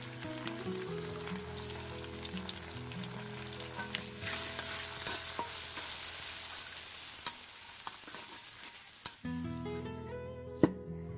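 Onions and spice paste frying and sizzling in an iron karahi, with a metal spatula scraping and stirring now and then; the sizzling grows louder about four seconds in. Soft background music plays underneath. Near the end the sizzling stops and a sharp knock sounds.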